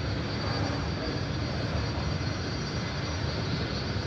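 Jet aircraft engine noise: a steady, unbroken rumble and hiss with a faint high whine.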